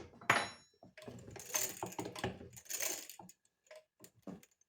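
Metal tools and engine parts being handled, clinking and rattling. There is a sharp clink with a short metallic ring near the start, then about two seconds of rattling and scraping, then a few light clicks.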